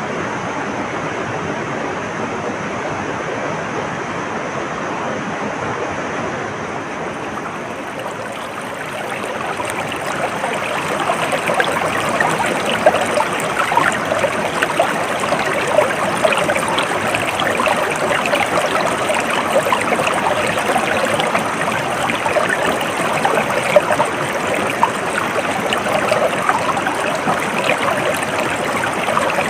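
Stream water flowing. A steady rush gives way, about ten seconds in, to a louder, livelier babbling with many small splashes.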